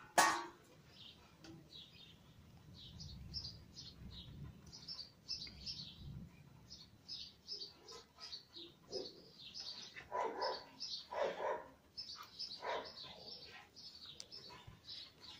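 Small birds chirping over and over, short high chirps throughout. A sharp knock right at the start is the loudest sound, and two short voice-like sounds come around ten and eleven seconds in.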